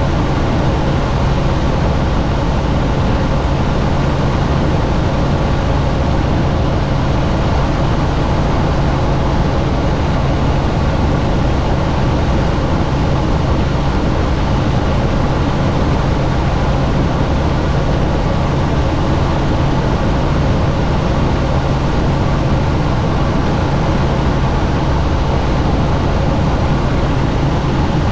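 Helicopter in flight heard from inside the doors-off cabin: steady rotor and engine noise mixed with rushing wind, with an unchanging low hum.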